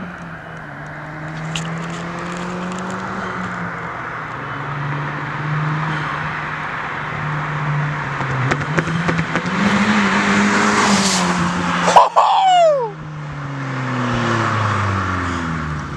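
Hyundai Genesis Coupe 2.0T's turbocharged four-cylinder with the muffler deleted, a loud raspy exhaust, driving up and passing by. It gets louder as it approaches, then its pitch slides down as it pulls away. A brief high-pitched sound cuts in about twelve seconds in.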